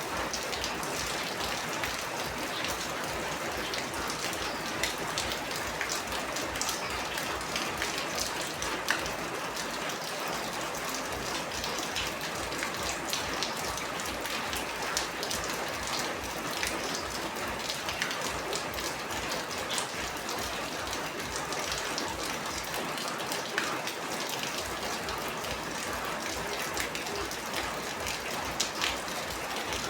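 Steady rain falling on a surface: an even hiss of rainfall with many individual drops ticking sharply through it.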